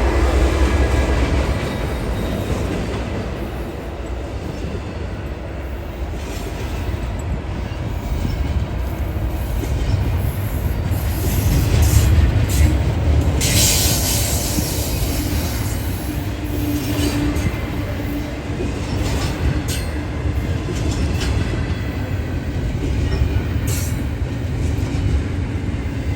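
A train rolling past, its wheels rumbling steadily with scattered clicks and knocks over the rails. About halfway through there is a brief high-pitched screech of wheel squeal.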